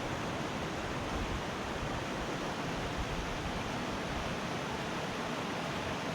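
Steady rush of fast-flowing mountain river water, an even noise with no breaks.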